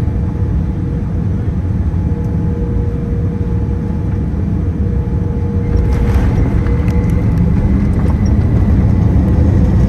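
Steady low rumble of a Boeing 787-9 airliner's engines and airflow heard inside the cabin, with a faint steady hum. About six seconds in it grows louder and fuller, with a few faint clicks.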